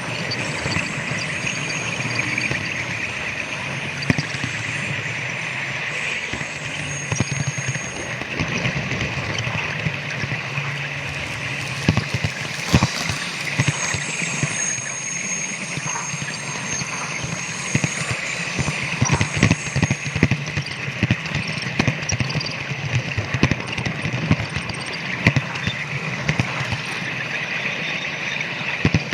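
Model train running on layout track: a steady motor and running whir with irregular sharp clicks of the wheels passing rail joints and points, and faint high tones that come and go.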